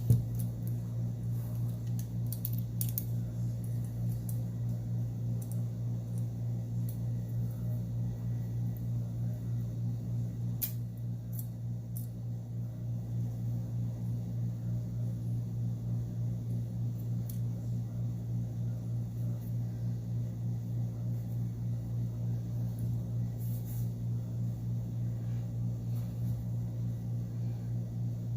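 Scattered small clicks and taps of repair tools on a smartphone's internal parts during mainboard removal, over a steady low hum.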